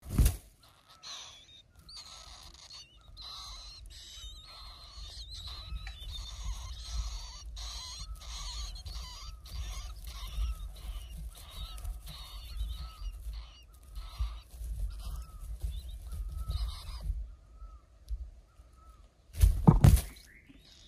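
Birds calling over and over, about two short arched calls a second, over a low rumble. The calls thin out and stop about 17 s in, and a loud thump comes near the end.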